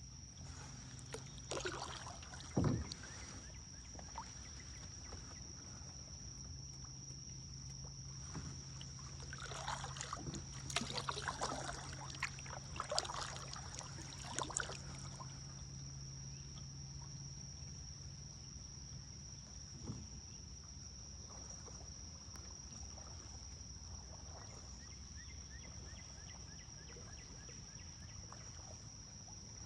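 Kayak paddling on a river: paddle blades dipping and splashing in the water, with a sharp knock a few seconds in and a busier run of splashes and drips from about ten to fifteen seconds in. A steady high-pitched whine sounds throughout.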